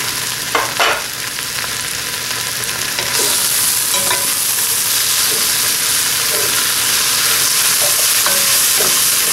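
Onions and mushrooms sizzling in hot oil in a pot while being stirred with a wooden spoon, with a few short knocks near the start. The sizzle gets louder from about three seconds in; the pot is still fairly dry because the mushrooms have not yet given off their water.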